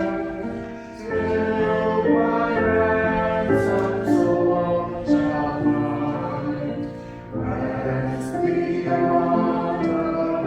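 Church choir singing a hymn in sustained chords, with short breaks between phrases about a second in and again after about seven seconds.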